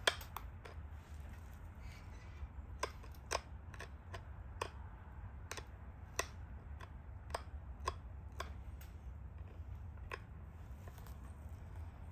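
Stone point being pressure-flaked: irregularly spaced sharp clicks as small flakes snap off the edge, over a steady low hum.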